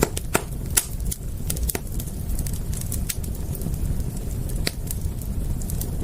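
Campfire crackling: irregular snaps and pops over a steady low rumble, with a few sharper pops in the first second.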